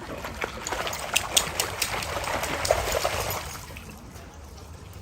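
Water splashing and trickling, with quick sharp splashes during the first three and a half seconds, then dying down to a quieter wash.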